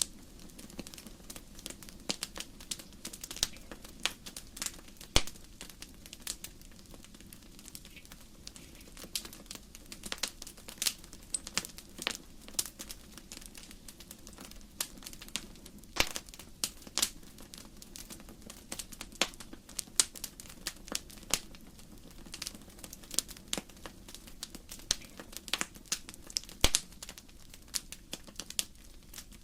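Wood fire crackling: many sharp, irregular pops and snaps of burning logs over a faint low hiss, with a few louder pops.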